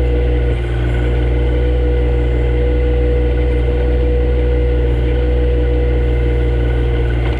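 Compact John Deere tractor's engine running steadily under work, with a steady whine above the engine note.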